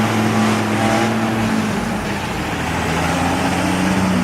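A truck's engine running with a steady low hum, easing off slightly about two seconds in.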